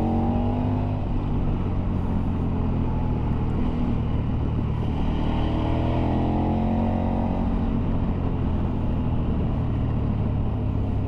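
Motorcycle engine running at road speed under wind and road noise, its pitch rising and falling with the throttle near the start and again about halfway through.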